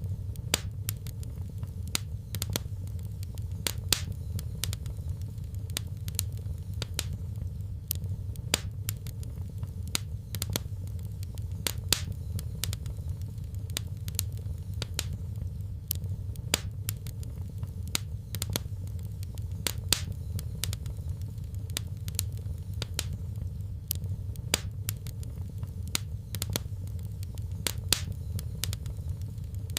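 Wood fire in a fireplace crackling: irregular sharp pops and snaps, a few every second, with now and then a louder pop, over a steady low rumble of the flames.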